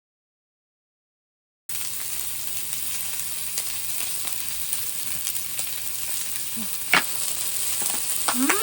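Food sizzling in a hot pan, a steady hiss that starts after a brief dead-silent gap, with one sharp click about seven seconds in.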